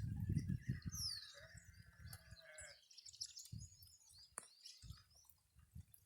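A sheep bleating: one long, wavering call of about two seconds starting about a second in, with birds chirping.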